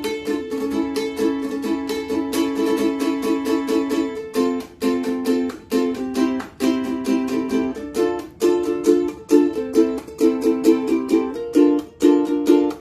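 Cowboy ukulele strummed in chords with a steady rhythm; about four seconds in the strumming turns choppier, with short breaks between the strokes.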